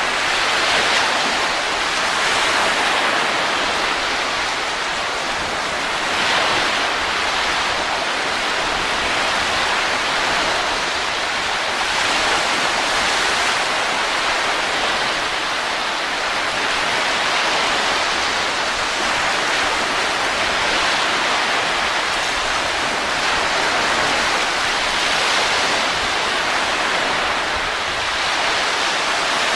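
Steady rushing wind, swelling and easing in slow gusts every few seconds.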